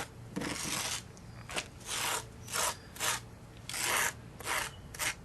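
Hand tool scraping a thick crack-filler paste of sealer and silicate across asphalt. It makes about eight short, uneven scraping strokes.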